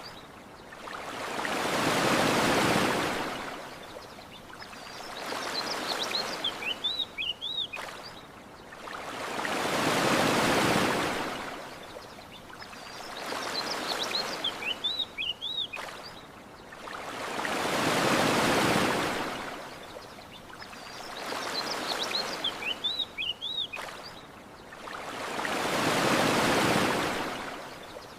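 Ocean waves washing up a sandy shore, one swell of surf hiss building and fading about every eight seconds in an even, repeating cycle. Brief high bird chirps come in the lulls between the swells.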